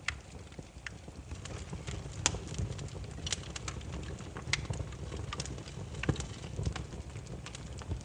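Burning firewood crackling: irregular sharp pops and snaps over a low steady rumble of the flames, the loudest pops a little after two and three seconds in.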